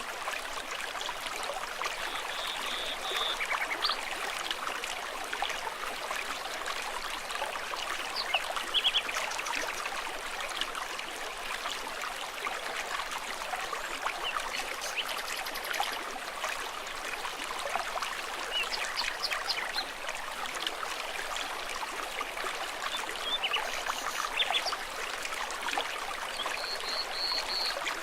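Small stream trickling and babbling steadily, a dense, even wash of water sound.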